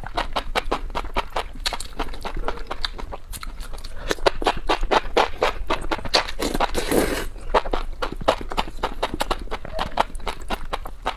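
Close-miked eating: rapid clicks and smacks of chewing and mouth sounds, with a brief louder burst of noise about seven seconds in.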